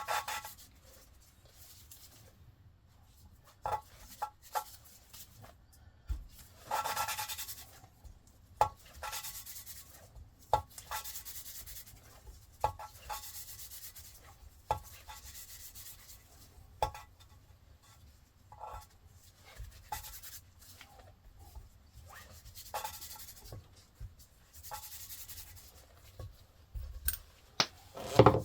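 Hand-work noises: short rubbing or scraping strokes every two or three seconds, with light clicks and taps between them and a louder clatter at the very end.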